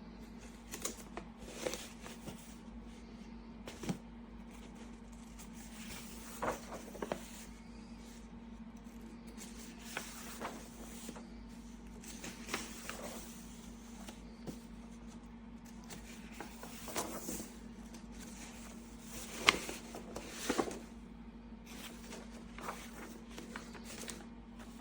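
Scattered light knocks and clicks of objects being handled, at irregular intervals with the sharpest about two-thirds of the way through, over a steady low hum.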